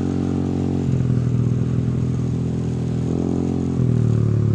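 Motorcycle engine running at road speed, about 50 km/h, heard through a cheap clip-on helmet mic with wind hitting it. The engine note shifts about a second in and again around three to four seconds in.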